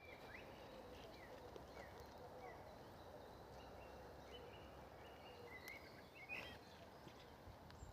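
Faint outdoor ambience with small birds chirping. A run of short falling chirps comes about twice a second early on, then brief flat higher notes, with a louder chirp a little after six seconds.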